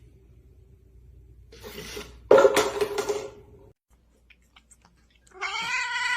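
Cat yowling and meowing: a loud, rough cry about two seconds in, then a long drawn-out meow near the end.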